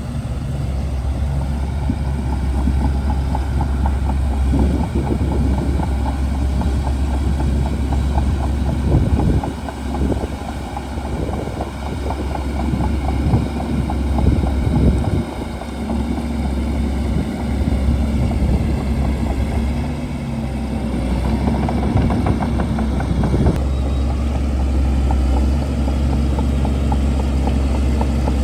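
Shantui DH17C2 bulldozer's diesel engine running steadily under load, with dense crackling and clatter from the machine working through brush. The engine note shifts about 23 seconds in.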